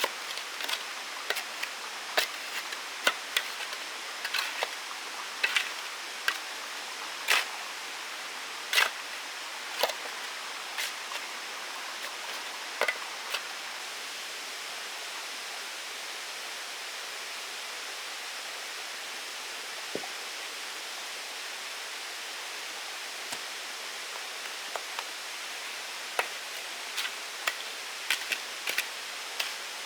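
A steady hiss with many sharp clicks and taps. The taps come often in the first dozen seconds, stop for a long stretch in the middle, and pick up again near the end.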